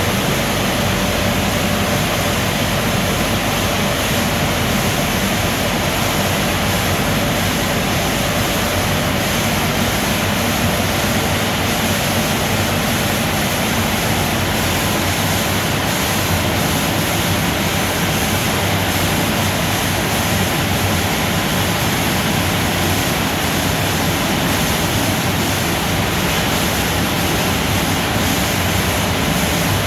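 Ceccato car wash tunnel running: a steady, loud rush of water spray and machinery noise that holds unchanged throughout.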